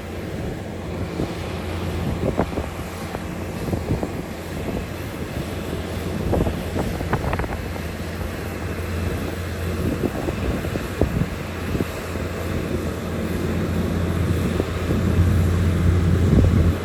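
Heavy diesel earthmoving machinery running with a steady low drone, with scattered clanks and knocks through it.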